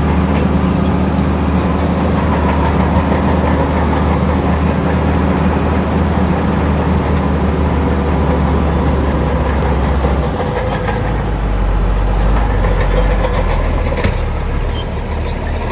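Heavy diesel engine of earthmoving machinery running steadily. Its low note drops about ten seconds in, and a few metallic clanks come near the end.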